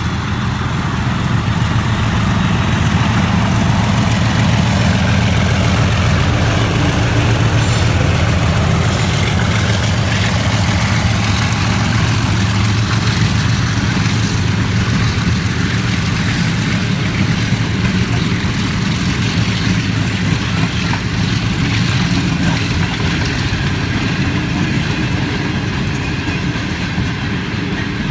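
A Hitachi diesel locomotive passing slowly at the head of an express, its engine drone loudest in the first part. Then a long train of passenger coaches rolls past with steady wheel rumble and clickety-clack on the rails.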